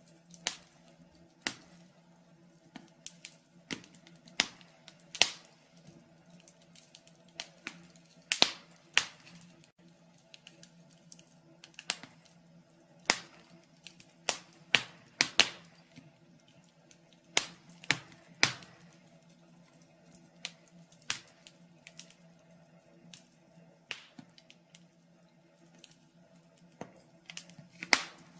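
Wood fire in a fireplace crackling: irregular sharp pops and snaps, about one or two a second, some much louder than others, over a faint steady low hum.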